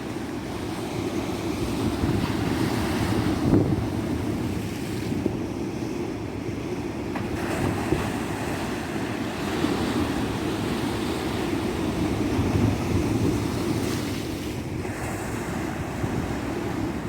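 Ocean surf washing continuously onto a beach, swelling and easing in waves every few seconds.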